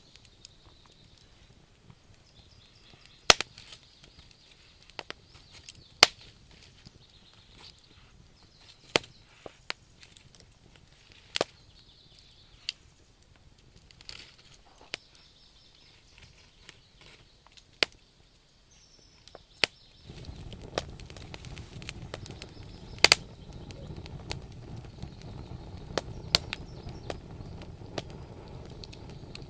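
Wood fire crackling, with sharp pops from the burning logs every second or two. About two-thirds of the way in, a steady low rushing noise joins the crackle.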